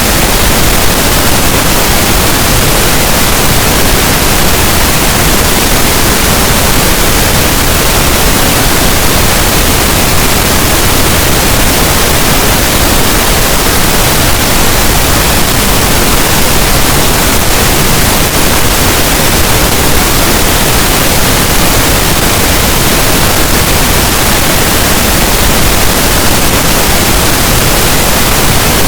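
Pink noise: a steady, loud, even hiss spread across all frequencies, unchanging throughout.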